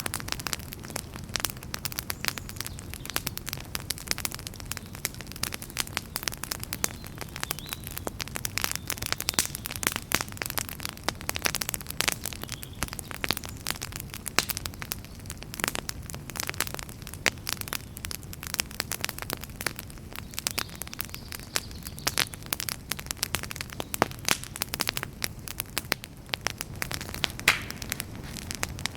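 Campfire burning with dense, irregular crackling and popping over a low rumble of flame and wind.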